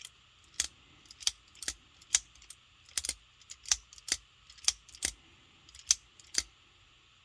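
Sitivien ST110 folding knife being flicked open and shut over and over: a string of sharp metallic clicks, about two a second, stopping about six seconds in.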